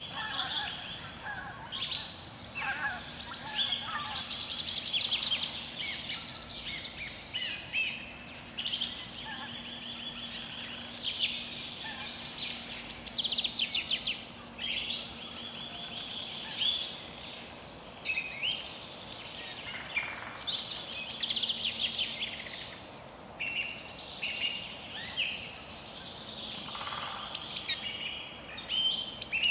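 Several songbirds singing, with overlapping chirps, trills and quick warbled phrases following one another.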